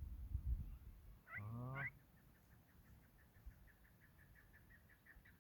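Chukar partridge calling: a short harsh cry about a second and a half in, then a run of rapid chuk notes, about four to five a second, growing louder toward the end.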